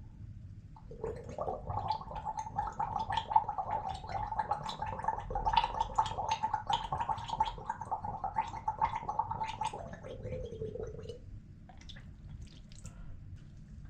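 A person gargling water in the throat, a bubbling rattle over a held hum, lasting about nine seconds and ending about ten seconds in, followed by a few small wet clicks.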